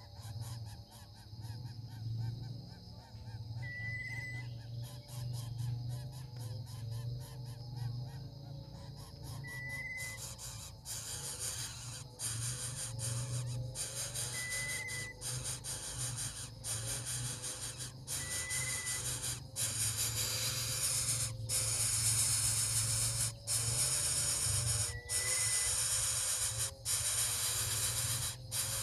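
Bird calls: low, wavering honk-like calls with short high whistled notes every few seconds, over a steady hiss that grows louder about ten seconds in.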